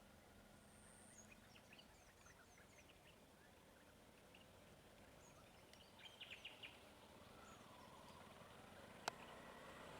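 Faint outdoor ambience with scattered bird chirps, short quick notes, including a brief rapid run of four or five notes about six seconds in. A single sharp click comes near the end.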